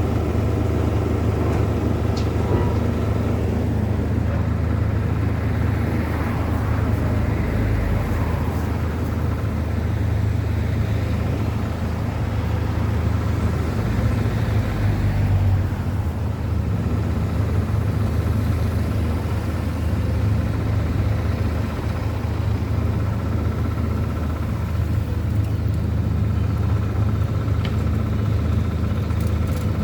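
Engine running steadily with an even low rumble, holding its pitch with no revving.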